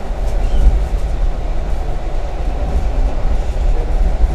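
Steady low rumble of a moving passenger train heard from inside the carriage: wheels running on the track.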